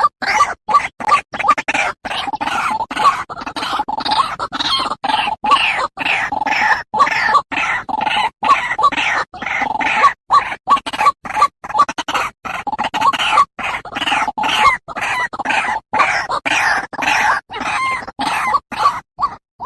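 White-breasted waterhen (ruak-ruak) lure call: a loud, rapid run of repeated harsh croaking notes, several a second, chopped by frequent brief drop-outs.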